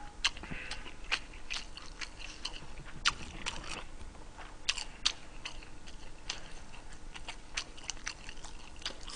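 A person chewing food close to the microphone, with irregular crisp crunching clicks.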